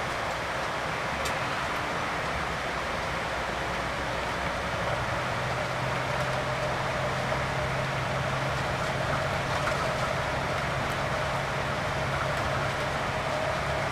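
Scania K410 coach under way: steady engine and road noise. A low engine hum comes in about five seconds in.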